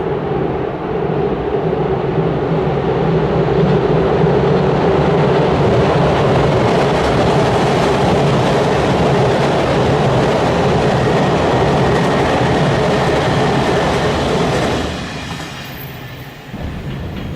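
A train running across a railway bridge, loud and steady, then falling off sharply about fifteen seconds in.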